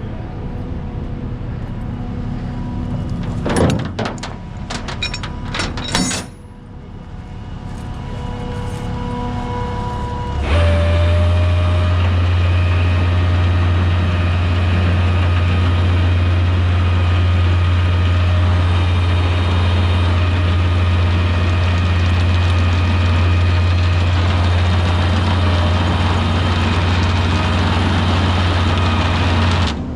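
Heavy diesel engine running, with a few short sharp clunks or hisses about four and six seconds in. About ten seconds in it steps up to a loud, steady, higher speed and holds there until it drops back just before the end.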